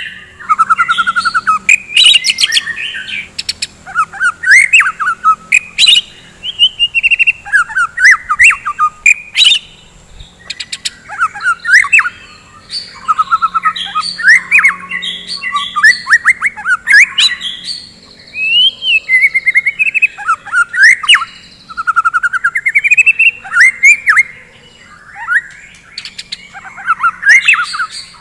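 White-rumped shama (murai batu) singing loudly in vigorous bursts of varied whistled phrases, fast trills and sharp clicking notes, with short pauses every few seconds.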